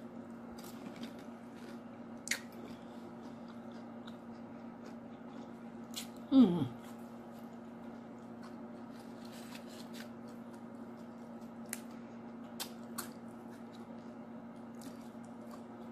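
Close-up eating sounds: chewing and crunching corn chips dipped in soup, with scattered sharp mouth clicks over a steady low hum. About six seconds in, one short falling vocal sound.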